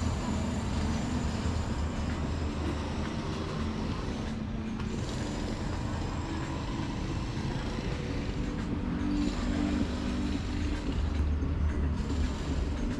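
Steady low drone of motor-vehicle engines, with pitched humming that shifts slightly in pitch.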